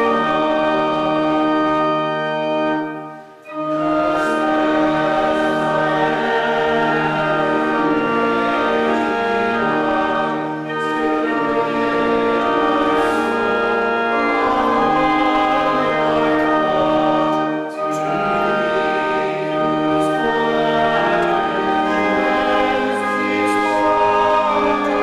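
Church organ playing a hymn with a choir singing along in sustained, held chords, with a short break between phrases about three seconds in.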